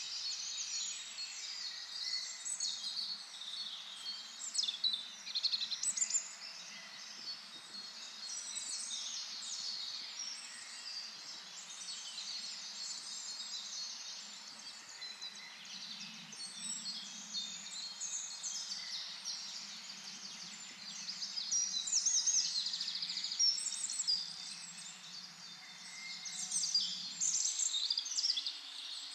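Several birds singing and calling at once, a dense tangle of high, overlapping songs and chirps.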